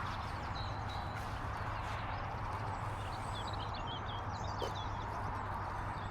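Outdoor background noise, steady and fairly quiet, with faint high bird chirps scattered through it, most of them in the middle.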